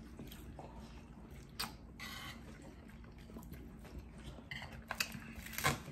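A man chewing a mouthful of roast chicken and mashed potato with gravy, with soft wet mouth noises and a few small clicks, the loudest near the end. A faint steady hum runs underneath.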